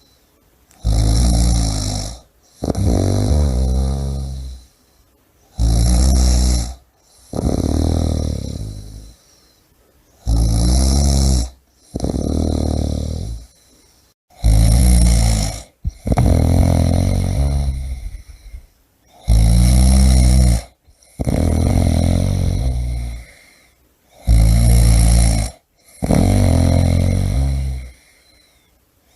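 A person snoring loudly in a steady rhythm. Each breath gives a short snore and then a longer one, and the pair repeats about every five seconds, six times over.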